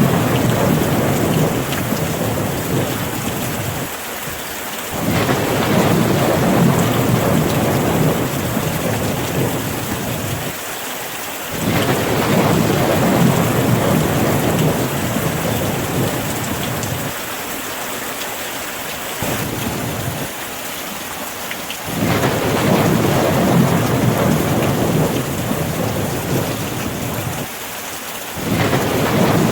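Steady rain in a thunderstorm, with repeated low rolls of thunder. Each roll comes in suddenly and fades over several seconds, about four times.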